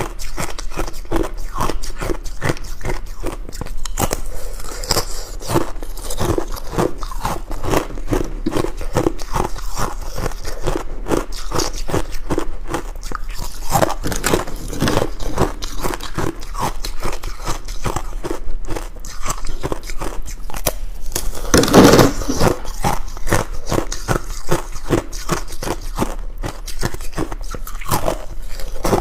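Ice being bitten and chewed close up: a dense, irregular run of crisp crunches, with one louder bite about three quarters of the way through.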